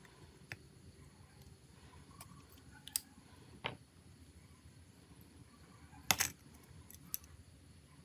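A few sharp, short clicks and taps, scattered a second or more apart and loudest a little past the middle, as of small tools and phone parts being handled during a repair.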